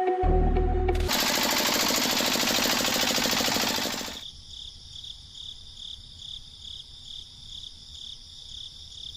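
A very fast, loud mechanical rattle like a small jackhammer for about three seconds, then it stops and a quieter steady high chirring of insects, like crickets, pulsing two or three times a second.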